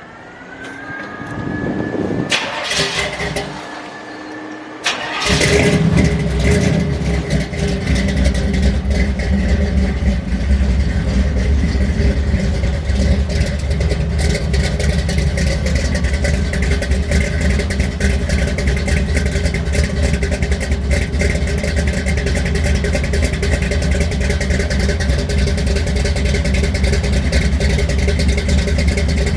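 1971 Chevy C10 truck engine being started: a rising whine with a couple of clicks for the first few seconds, then the engine catches about five seconds in and runs steadily.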